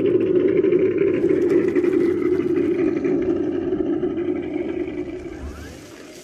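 Simulated truck engine sound from an ESS-One sound module's speaker on a radio-controlled snowcat, running steadily and then fading over the last couple of seconds.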